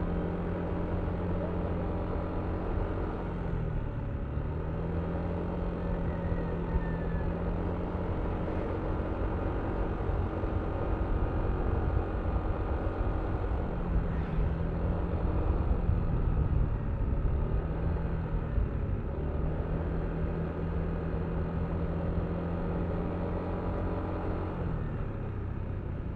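Yamaha Aerox V3 scooter's 155 cc single-cylinder engine running under way, its note steady with a few brief dips in pitch that recover, over a low wind rumble that grows louder midway.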